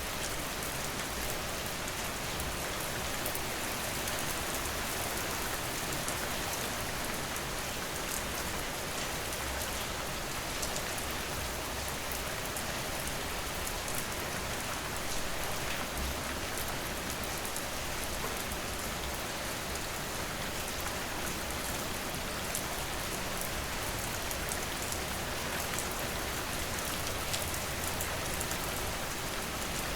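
Steady rain falling and pattering on a surface, an even hiss with scattered drop ticks throughout.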